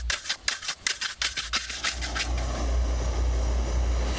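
Quick, even hand strokes rubbing or rasping on wood, about five a second, stopping about two seconds in. They give way to a steady, rumbling noise.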